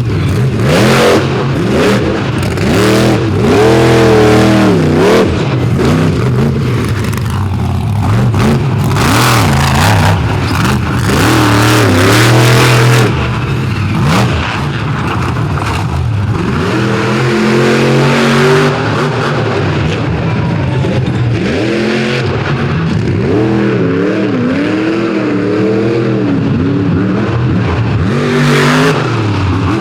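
Monster truck engine revving hard, its pitch climbing and falling again and again as the throttle is worked through a freestyle run.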